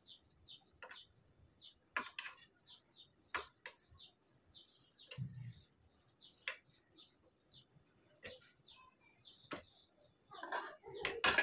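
A small bird chirping faintly and repeatedly, short high chirps about two or three times a second, with a few light clicks and knocks of steel dishes being handled on the counter and a brief clatter near the end.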